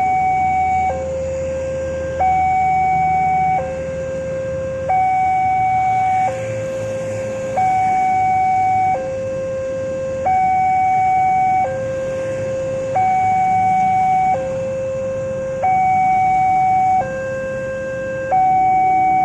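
Railway level crossing warning alarm sounding, an electronic two-tone signal that alternates evenly between a higher and a lower tone, each held for a little over a second. It warns that a train is approaching and the barriers are closing.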